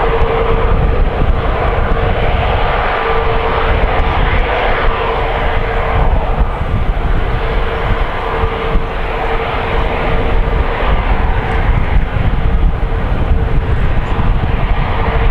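Jet airliner's engines running, a loud, steady rush of noise with a steady tone held through it.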